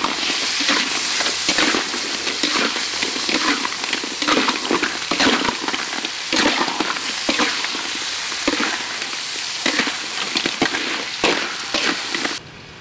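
Mud crab pieces stir-frying in a hot wok: a steady sizzle with repeated scrapes and knocks of a spatula tossing the crab against the pan. The sizzle cuts off abruptly near the end.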